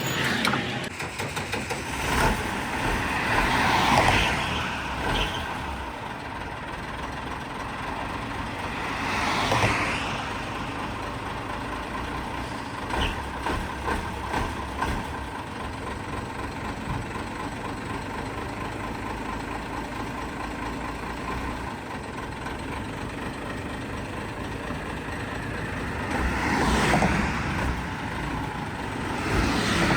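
Highway traffic: a steady rumble of heavy vehicles, with three louder pass-bys that swell and fade about 4 seconds, 10 seconds and 27 seconds in.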